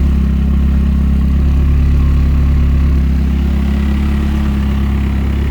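Drift car's engine idling steadily under a tarp, a low even hum.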